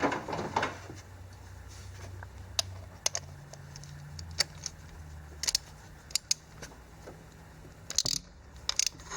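Scattered metallic clicks and clinks of a socket wrench and spark plug socket as a spark plug is worked loose and drawn out, with a cluster of clicks near the end over a low steady hum.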